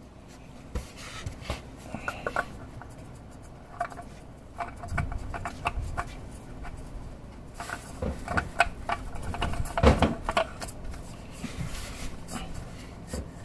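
Irregular clicks and knocks of hand work on parts, with a few dull thumps about five and ten seconds in.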